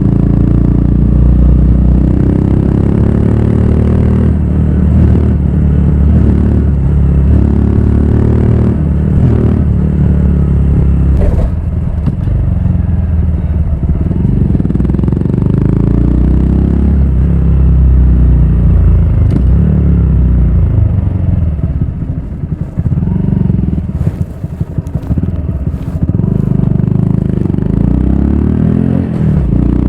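Honda Grom's 125 cc single-cylinder four-stroke engine through a Yoshimura full exhaust system, under way: the note climbs in pitch again and again and drops back at each gear change. A little past the middle it eases off and goes quieter and uneven for a few seconds before pulling again.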